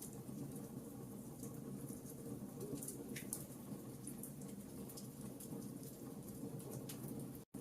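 Wood fire burning in a fireplace: a steady low rush of flame with scattered sharp crackles and pops. The sound cuts out for an instant near the end.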